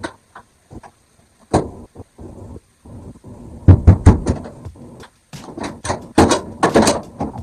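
Knocks and rattling clatter of a washing machine's cabinet panel being worked loose by hand at its tabs: one knock, then loud bunches of knocks and rattles in the second half.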